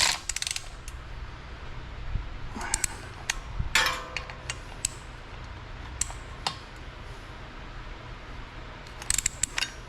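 Metal tools and parts being handled on a workbench: scattered clinks and knocks, with one ringing metallic clink about four seconds in, over a steady low hum.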